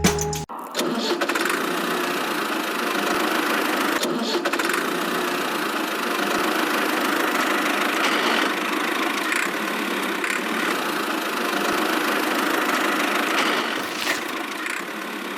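A small motor running steadily. It starts about half a second in and holds an even pitch and level until it cuts off at the end.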